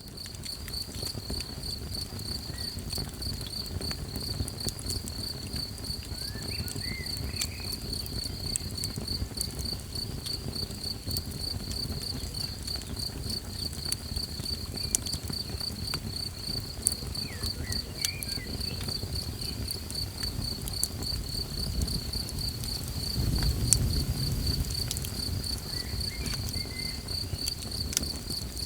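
Crickets chirping in a steady, pulsing high-pitched trill over a campfire crackling with sharp pops and a low rush of burning, which swells for a few seconds near the end. A few faint short chirps from another animal come now and then.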